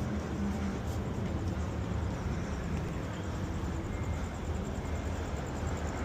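Busy street ambience: a steady rumble of passing traffic with a general outdoor hum.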